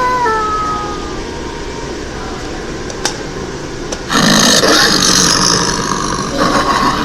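A wolf's howl tails off with a falling pitch in the first second. About four seconds in, a loud, rough, noisy sound starts and keeps going.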